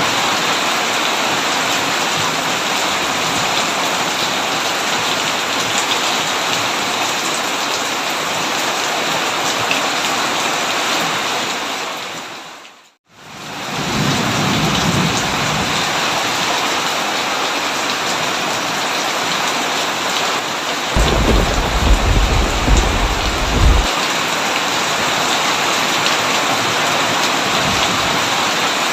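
Heavy rain pattering steadily on a tin roof, with a low rumble of thunder about three-quarters of the way through. Just before halfway the rain fades out to silence and fades back in.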